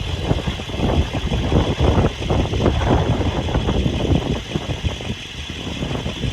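A vehicle engine running, with an uneven low rumble and many small knocks through it.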